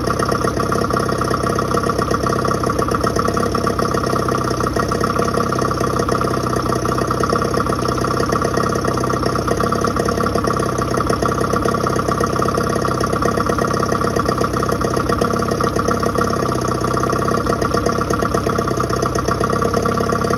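Yamaha 25 hp two-stroke outboard motor running steadily at idle.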